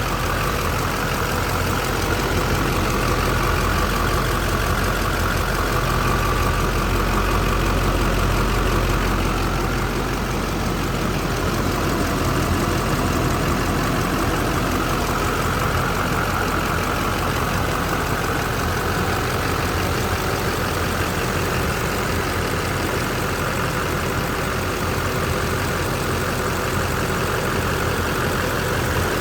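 6.6L Duramax V8 turbo diesel engine idling steadily.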